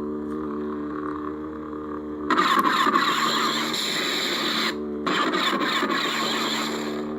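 Lightsaber sound board (Crystal Focus 8) playing its steady, pitched blade hum through a small speaker. About two seconds in, a louder, noisy swing effect comes in over the hum for a couple of seconds, breaks off briefly, and starts again.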